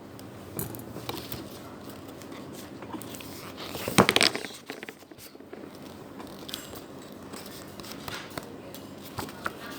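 Paper rustling and small clicks as a picture book is handled and a page turned, with one short, louder rustle about four seconds in, over faint room noise.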